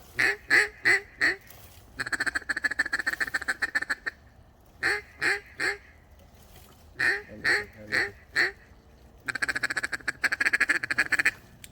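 Hunter's duck call blown to work incoming ducks: a run of four loud quacks, a fast, even feed chatter, two more runs of four quacks, then another feed chatter.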